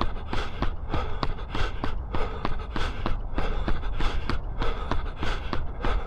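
A runner's footsteps striking pavement at a steady quick cadence of about three steps a second, with hard breathing at threshold effort and a steady low rumble underneath.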